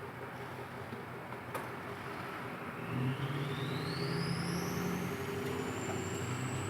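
A motor vehicle's engine running, louder from about three seconds in, with a high whine that rises steadily in pitch.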